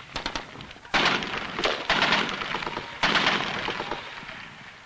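Gunfire in battle: a short rattle of automatic fire at the start, then three loud bursts about a second apart, each starting sharply and trailing off.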